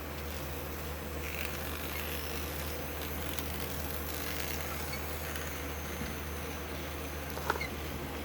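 Thomas the Tank Engine model train running slowly on its track, its small electric motor giving a steady low buzzing hum. One short click comes about seven and a half seconds in.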